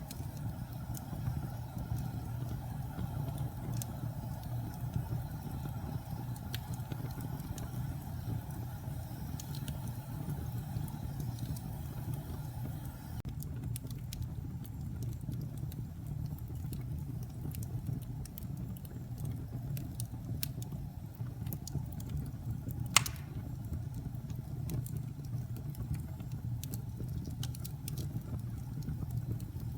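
Wood fire in a fireplace crackling: a steady low rumble of burning with scattered small pops and ticks, and one loud sharp pop about two-thirds of the way through.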